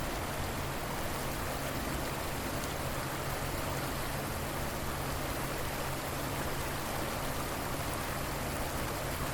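River water flowing, a steady even wash of water noise with no breaks.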